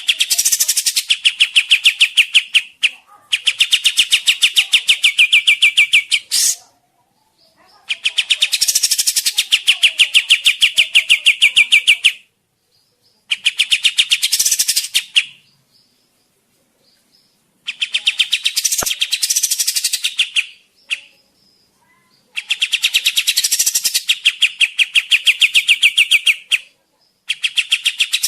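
Kapas tembak songbird singing in loud, fast trills of evenly repeated notes, in phrases of about two to four seconds separated by short pauses; recorded song of the kind played as a lure call to draw wild birds.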